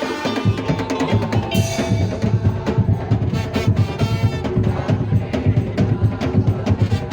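Madurese daul (tong-tong) percussion ensemble playing: a fast, dense beat of wooden slit drums and drums under a steady melody line.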